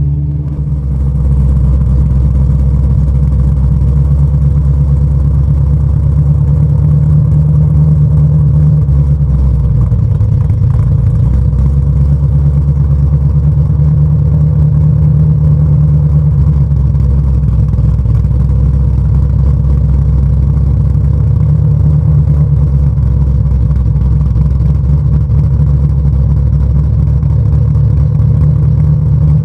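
2016 Mustang GT's 5.0 V8 idling steadily through catless Kooks longtube headers and an MBRP Race catback, deep and loud, running a Lund 'cammed' tune that gives it a cam-style idle. The pitch shifts slightly about nine seconds in.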